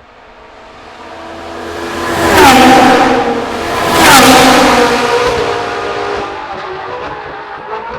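Two Ferrari 458 Challenge EVO race cars passing at speed one after the other, each naturally aspirated V8 swelling to a peak and dropping in pitch as it goes by, less than two seconds apart. The engine sound then fades away into the distance.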